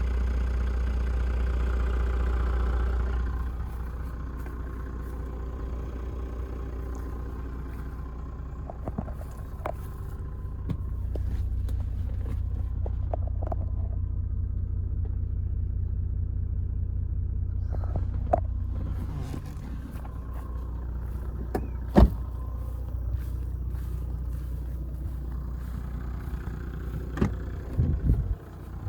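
Toyota Land Cruiser 100 Series 4.2-litre straight-six turbo diesel idling steadily, its low rumble fading and swelling a few times. Scattered clicks and knocks come over it, with one sharp click about two-thirds of the way in and a few knocks near the end.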